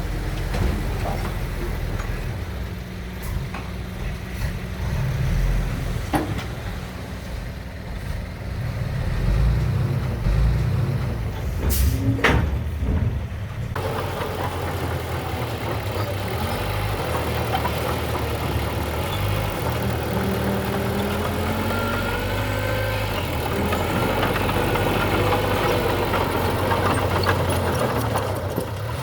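Heavy diesel construction machinery running steadily with a low rumble, the engine note shifting about fourteen seconds in. A brief sharp hiss comes about twelve seconds in.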